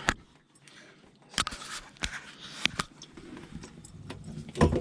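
A handful of short, sharp clicks and knocks, irregularly spaced with quiet gaps between them, like objects being handled.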